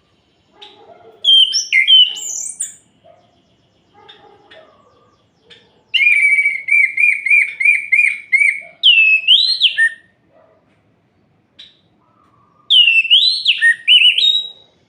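Orange-headed thrush (anis merah) singing in three bursts. First comes a short phrase of high whistles about a second in. From about six seconds there is a run of quick repeated chirps, about three a second, ending in a loud swooping whistle. Another swooping whistled phrase comes near the end.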